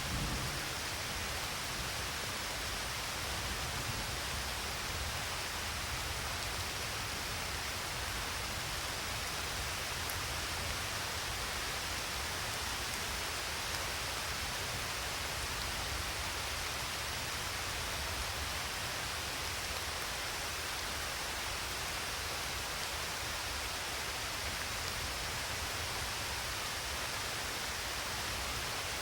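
Steady rainfall: an even, unbroken hiss of rain, with a low rumble underneath.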